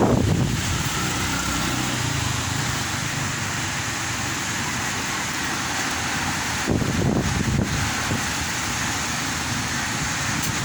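Strong wind blowing in a steady rush, with gusts buffeting the microphone at the start and again about seven seconds in.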